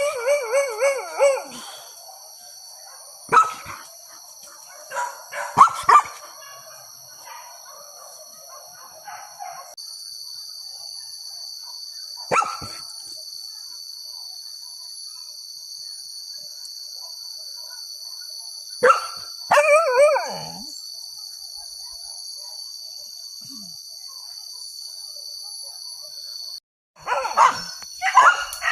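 Hunting dogs barking in scattered bursts with long gaps between, some barks drawn out and wavering, over a steady high-pitched drone.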